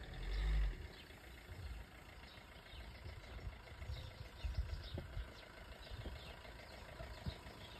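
Car engine idling low and uneven, with a louder rumble in the first second as the car eases over the paver stones. Birds chirp faintly throughout.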